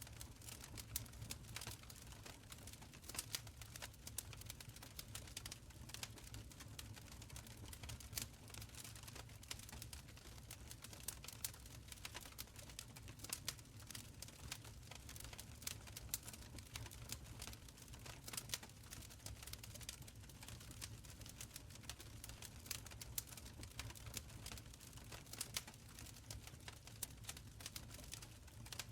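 Wood fire in a stone fireplace crackling: frequent irregular sharp pops and snaps over a soft low rumble of the flames.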